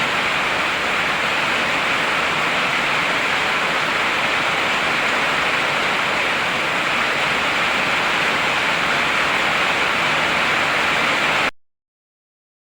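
Heavy rain falling in a steady, even hiss, which cuts off suddenly into dead silence near the end.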